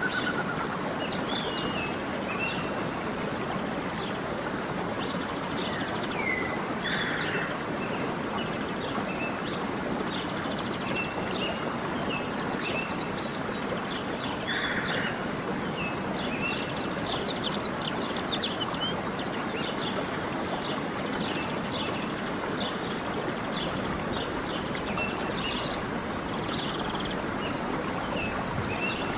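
A stream flowing with a steady rush, while several songbirds chirp and trill on and off throughout.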